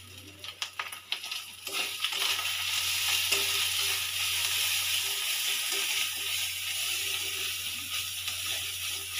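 Onion and spice masala sizzling in hot oil in a steel kadai while a ladle stirs it. A few ladle clinks come first, then the sizzle swells to a steady hiss about two seconds in.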